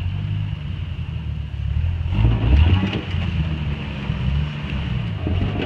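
Jeep engine running at low revs as it crawls over boulders, swelling louder for a moment about two seconds in.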